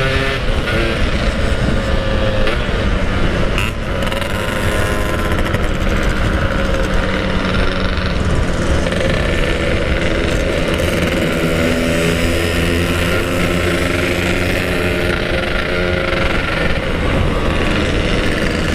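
Two-stroke motorcycle engine running under way, its pitch rising and falling with the throttle, over heavy wind rush on the microphone.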